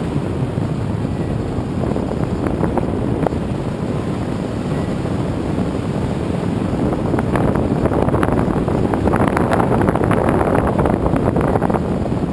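Wind rushing over the microphone of a camcorder riding aboard a radio-controlled aerial-photography plane in flight, mixed with the plane's running motor and propeller. Rough crackling buffets join in from about seven seconds in.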